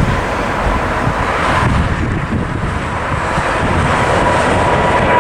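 Boeing 777's twin turbofan engines at takeoff thrust as the jet climbs out just after liftoff: a loud, steady rumble with a steady whine over it, with wind buffeting the microphone.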